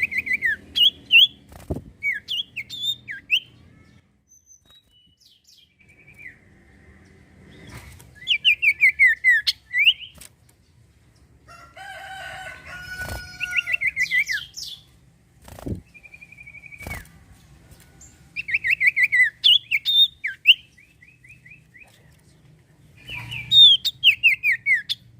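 Common iora singing: bursts of rapid whistled notes, each sliding downward, repeated several times with pauses between. Around the middle there is a different call with a fuller tone, and a few sharp clicks are heard between the phrases.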